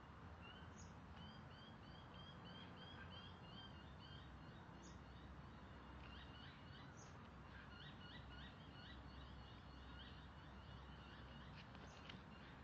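Faint birdsong: a run of short high chirps repeated about three times a second, then a second, quicker run, over a low background noise.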